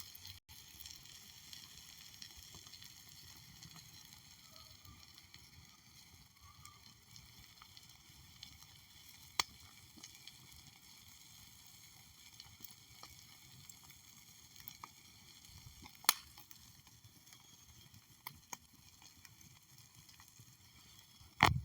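Faint steady hiss with a few scattered sharp clicks, then one louder thud right at the end.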